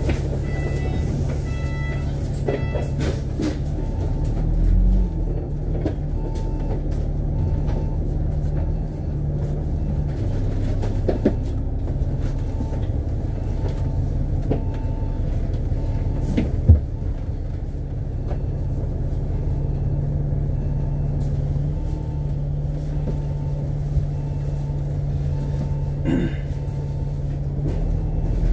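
Cabin sound of a diesel double-decker bus moving through town traffic: a steady engine drone whose pitch shifts a few times as it changes speed. A faint short beep repeats about once a second, and there is one sharp knock about two-thirds of the way through.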